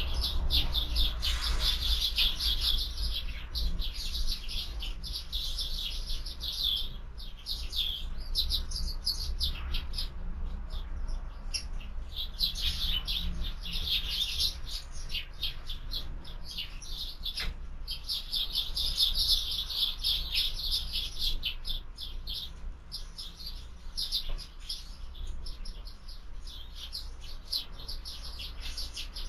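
A flock of sparrows chirping at a feeder: many short overlapping chirps in busy bouts with brief lulls, over a low steady rumble.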